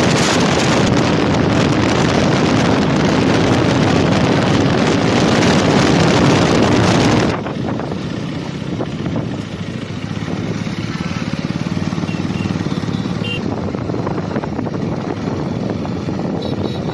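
KTM 250 Duke's single-cylinder engine running at speed under heavy wind rush on the microphone. About seven seconds in, the sound drops abruptly to a quieter mix of engine and wind.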